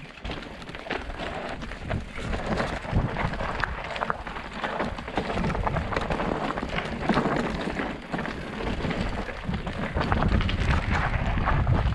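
Bike tyres rattling and crunching over a loose, stony track, with wind buffeting the microphone.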